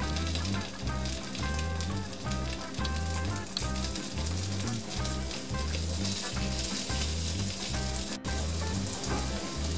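Boiled potato pieces sizzling in hot oil in a frying pan as they are laid in, over background music with a steady beat.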